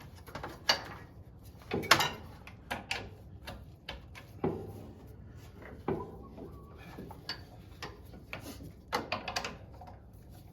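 Scattered clicks and knocks of snowplow hydraulic hose quick-couplers being handled and snapped onto their fittings, a dozen or so sharp strokes at uneven intervals.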